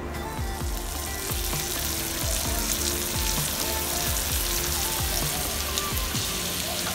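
Rice-flour-coated squid pieces shallow-frying in hot oil in a frying pan: a steady sizzle with small crackles, growing louder about a second in.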